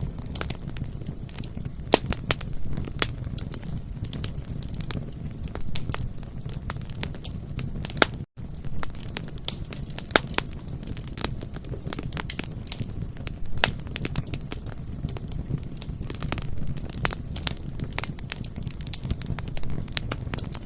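Bonfire burning: frequent sharp crackles and pops from the burning wood over a steady low rumble, with a very brief dropout to silence about eight seconds in.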